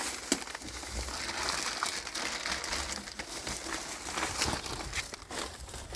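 Rustling and crinkling of things being handled, with scattered light clicks and knocks, one sharper click just after the start.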